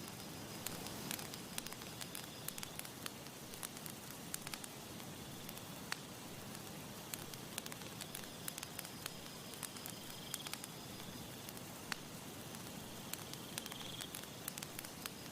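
Campfire crackling: frequent sharp irregular pops and snaps over a steady soft hiss.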